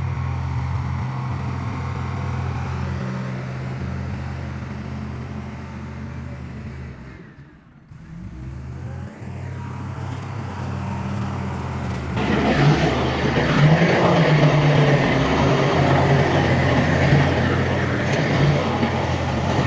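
Heavy diesel engine of earthmoving machinery running steadily; partway through it briefly drops away, then returns louder with a rough, clattering noise over the engine.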